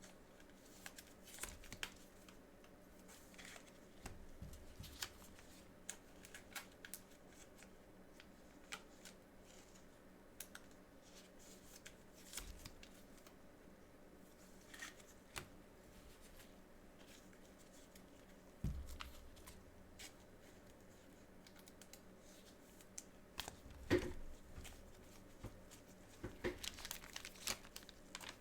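Faint handling of trading cards and their packaging: scattered light taps and rustles, with a denser stretch of crinkling near the end.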